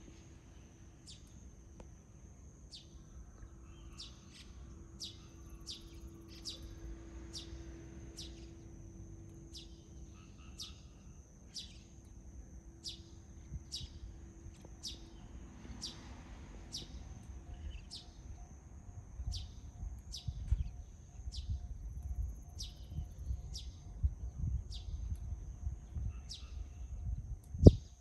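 Small songbird calls: thin, high notes sliding downward, repeated about once a second over a steady high-pitched whine. In the second half there is low rumbling noise on the microphone, and near the end a single sharp knock.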